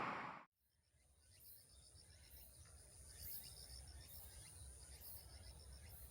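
A loud rushing noise fades and cuts off about half a second in. Then faint insects chirping: a steady high trill, with trains of short pulsed chirps and a higher buzz repeating about once a second.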